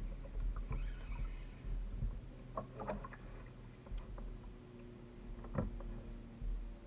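Low wind and water noise on a fishing kayak at sea, with a few short knocks on the hull or gear, a pair about two and a half to three seconds in and one more about five and a half seconds in.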